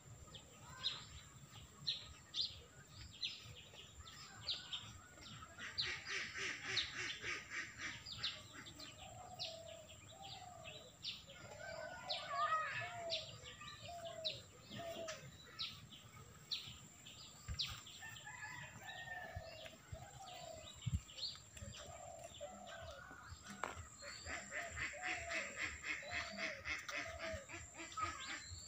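Birds calling: a steady scatter of short, sharp chirps, with a fast rattling trill about six seconds in and again near the end, and strings of lower notes that rise and fall in between.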